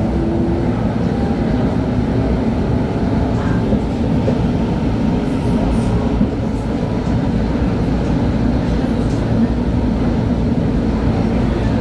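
A 1997 LHB TW2000 Stadtbahn car heard from on board, running along the track with a steady, even rumble and faint steady tones above it.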